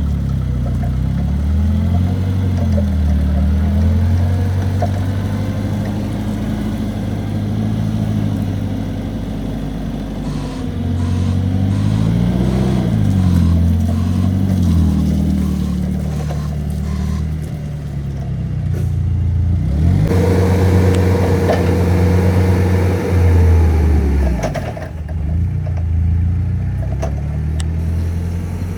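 Engine of a 2006 CAT GP18N gas forklift truck running, revved up and back down several times. A steady higher-pitched whine joins for about four seconds past the middle and stops suddenly.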